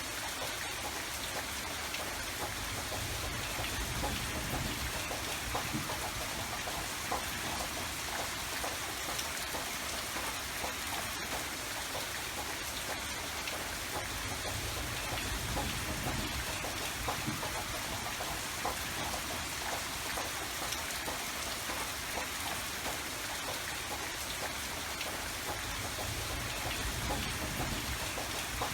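Steady rain falling, with a dense patter of individual drops striking a surface and a low rumble beneath.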